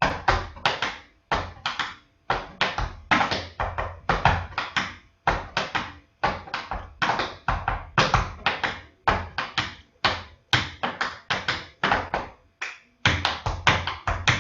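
Tap shoes striking a hard floor in quick rhythmic clusters of two or three sharp taps, several a second: drag-tap tap dance steps.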